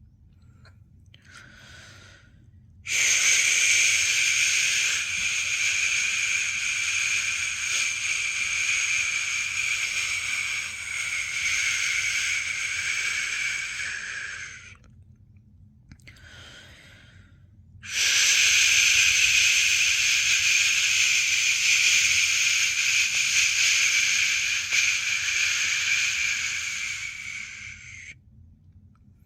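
A person's long 'shhh' shushing, used to settle a newborn to sleep: two long shushes of about ten seconds each, with a short faint breath before each.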